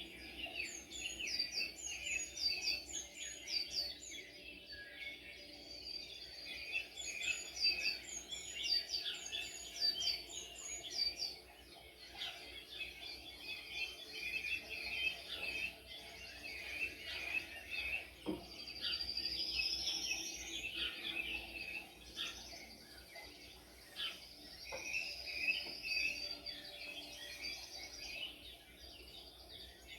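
Several birds chirping and singing together, a dense run of quick, high chirps with one long rising whistle about two-thirds of the way through.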